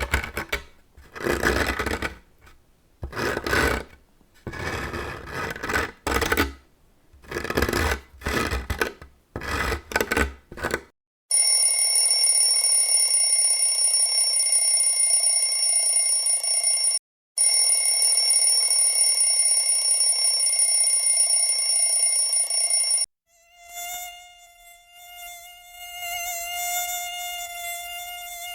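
A run of grating sounds. First come about eleven seconds of short, irregular bursts of harsh rubbing noise. Then a steady, piercing high whine holds for about twelve seconds with one brief break, and it is followed by the wavering, high buzz of a mosquito in flight.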